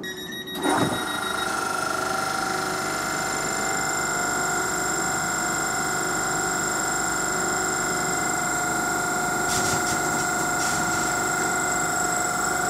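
South Western Railway electric multiple unit moving along the platform: a sudden loud onset about a second in, then a steady electric whine over the rumble of the train, with a few faint clicks near the end.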